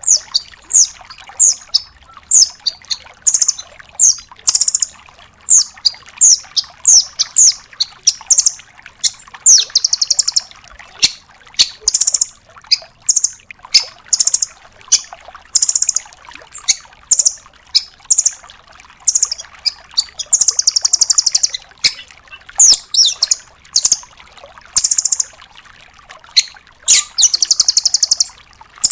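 Velvet-fronted nuthatch calling: a rapid series of short, sharp, high notes, many falling in pitch, broken by a few longer buzzy trills, about ten seconds in, around twenty seconds and near the end.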